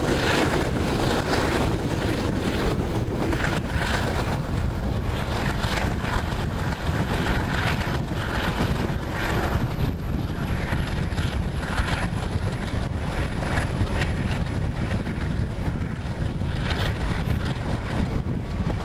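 Wind buffeting a microphone held out of a moving passenger train's window, over the steady rumble of the carriages running along the track.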